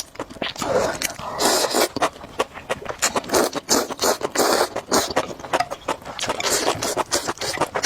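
Close-miked eating: a fast, uneven run of crunchy chewing clicks, with a few longer noisy smacking or slurping swells.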